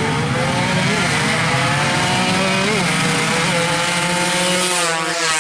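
Yamaha Jupiter MX drag bike's single-cylinder four-stroke engine held at high, nearly steady revs, with small wobbles in pitch about a second in and near three seconds.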